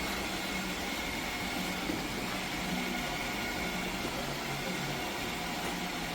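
Lefant M330 Pro robot vacuum running: a steady fan noise with a faint high whine.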